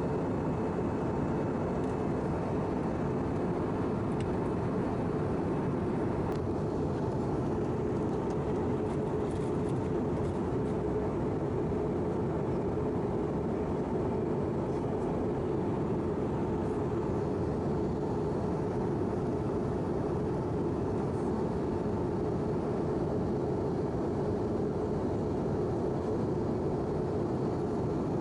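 Steady cabin noise of an Airbus A319-111 in flight, heard from inside the passenger cabin: engine hum and airflow rushing over the fuselage, an even drone with a low rumble.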